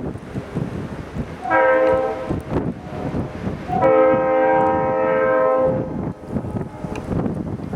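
Leslie RS3L three-chime air horn on a Norfolk Southern GP40-2 locomotive sounding for a grade crossing: a short blast, then a longer one about two seconds long, a chord of several steady tones. The rumble of the passing train runs underneath.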